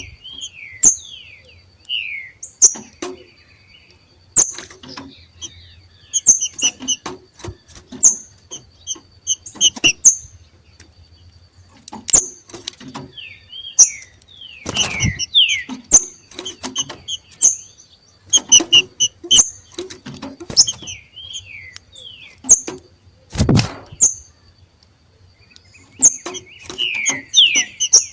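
Green-winged saltators (trinca-ferro) giving their 'macheado' breeding-condition call: irregular sharp clicks mixed with short falling chirps and high squeaky notes. Two heavier thumps come about halfway through and about four-fifths of the way in.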